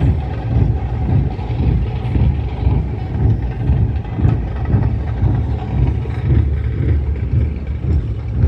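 Wind buffeting the microphone: a gusty low rumble that swells and fades every second or so.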